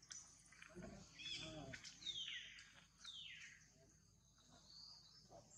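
Faint bird calls: two falling whistled notes about a second apart, and a short high note near the end, over a steady high insect hiss.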